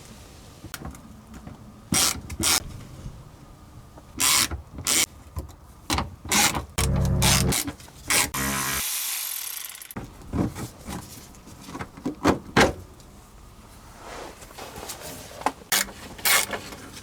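Workshop disassembly: sharp knocks and clicks of parts being handled and pried loose. A small motor runs for about two seconds in the middle of this, followed at once by about a second of hiss.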